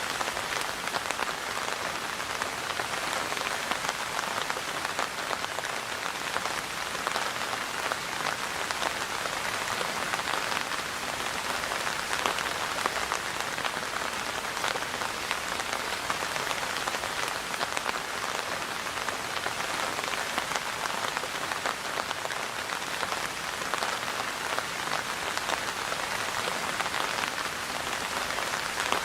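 Steady rain falling, a dense patter of drops hitting a surface that keeps an even level throughout.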